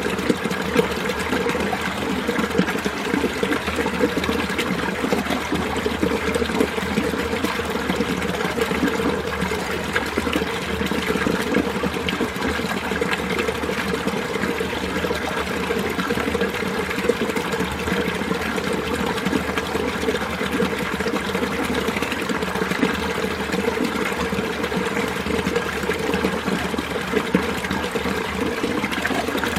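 Mountain valley stream flowing over rocks: a steady, continuous rush and babble of water.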